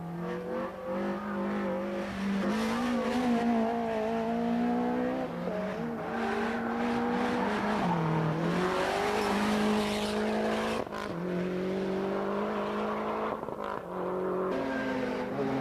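Rally car engine running hard at racing revs, its pitch holding high and dipping briefly a few times, about halfway through and again near the end, as the driver shifts or lifts.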